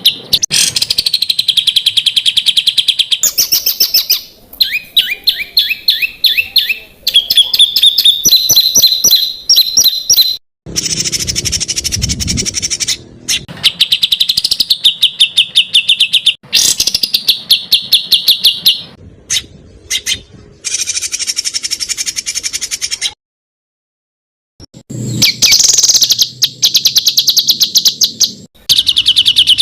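Recorded songbird song for training competition birds: fast, dense runs of repeated sharp chirps and trills. The clips are spliced together with abrupt cuts, and there is a silent gap of about two seconds a little over three-quarters of the way through.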